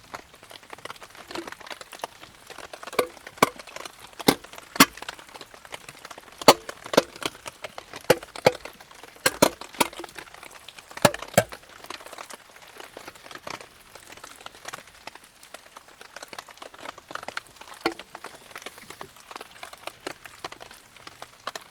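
Irregular sharp cracks and snaps of wood, coming thick and loud through the first half and thinning out toward the end.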